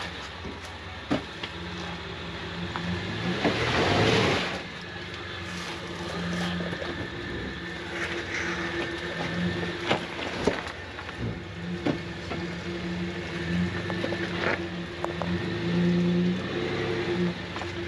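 Jeep TJ driving slowly along an off-road trail, its engine running steadily as the pitch shifts a little. About four seconds in there is a loud rush of noise, and short knocks and clunks come now and then.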